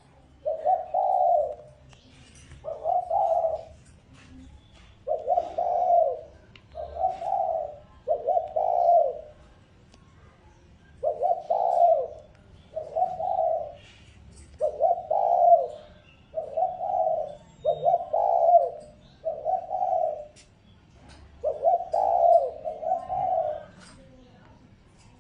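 Spotted dove (chim cu gáy) cooing over and over: short, low coo phrases about a second long, often in pairs, repeated every one to two seconds. It is the decoy call used to provoke wild male doves (kích bổi).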